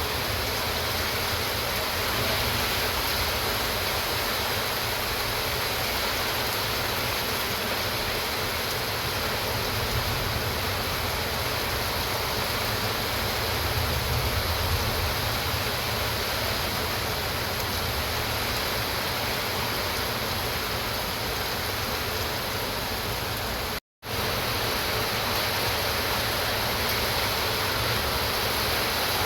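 Heavy rain pouring down steadily, a dense even hiss. It is broken once by a split-second gap near the end.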